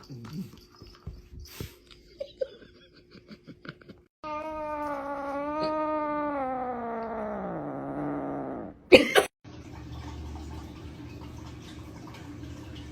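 A cat's long, drawn-out yowl lasting about four seconds, level at first and then sliding down in pitch as it ends. Light scattered knocks come before it, and a short, sharp bang follows, the loudest sound here.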